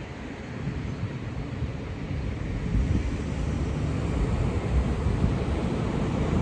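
Road vehicle rumble growing louder as it approaches, with wind buffeting the microphone.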